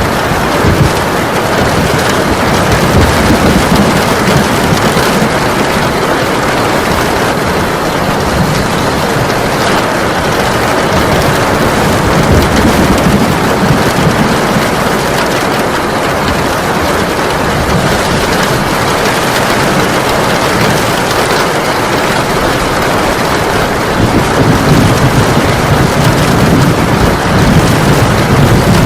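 Heavy rain pouring steadily, with low rumbles of thunder swelling up a few times.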